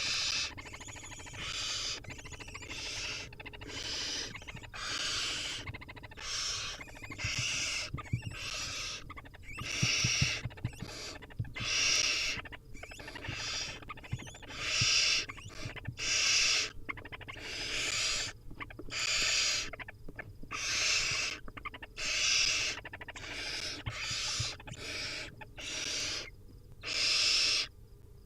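Barn owl nestlings giving their rasping, hissing begging calls, one after another about every second or two: the chicks' hunger call for food.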